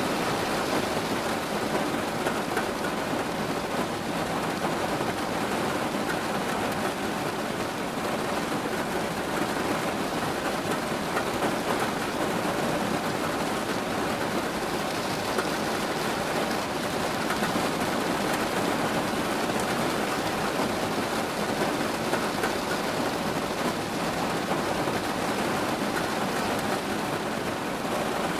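Steady rain falling and pattering on surfaces, an even hiss with no breaks or distinct thunderclaps.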